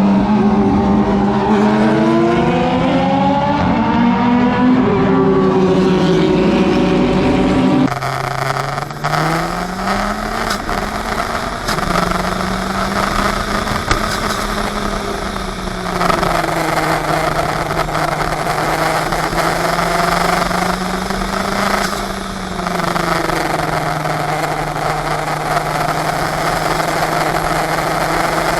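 Race car engine of a 400 hp open-wheel sports car under load, its pitch climbing and stepping through gears for the first several seconds. After an abrupt change about eight seconds in, it holds a steadier drone that sags and rises.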